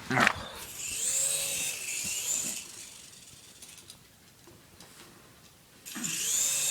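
Small RC helicopter's electric motor and rotor whining up and falling away in bursts: once for about two seconds starting a second in, and again near the end. A short sharp knock comes at the very start.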